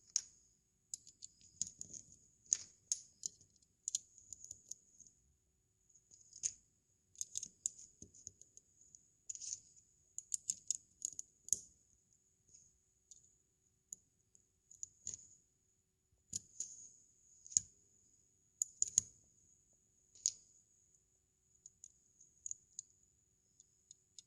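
Plastic Lego bricks being handled and snapped together: irregular small clicks, often several in quick succession, with short gaps between.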